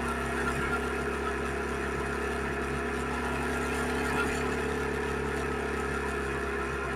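Suzuki SV650X motorcycle's V-twin engine running at steady, unchanging revs.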